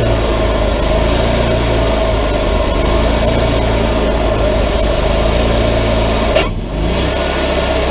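Wood-Mizer LT40 hydraulic sawmill's engine running steadily, with one short sharp knock about six and a half seconds in followed by a brief dip in the sound.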